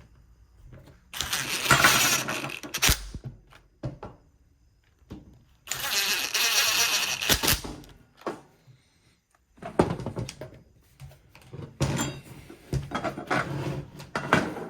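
A small power driver running in two bursts of about two seconds each, driving screws into the hammer drill's plastic handle housing, followed by clatter and knocks of parts being handled.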